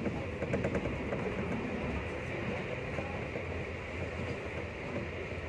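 Steady running noise of a moving passenger train heard from inside the carriage: a low rumble of wheels on rails, with a few faint clicks about half a second in.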